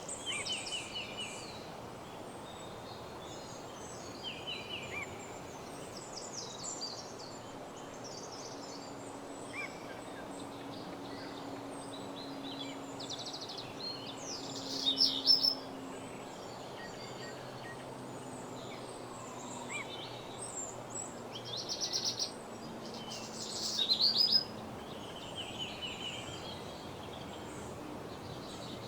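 Several small songbirds singing and calling in a woodland dawn chorus: repeated short chirps and quick trills, with the loudest trills about halfway through and again a little past three quarters. Under them runs a steady low rushing background, with a faint low hum in the middle.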